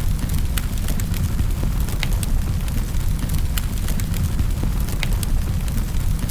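Wood fire in a fireplace crackling: irregular sharp pops and snaps, a few a second, over a steady low rumble.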